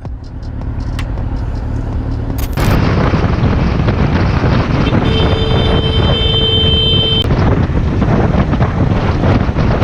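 Motor vehicle riding noise: a low engine hum grows louder, then a dense rush of engine and wind noise on the microphone sets in suddenly. In the middle a steady high tone holds for about two seconds.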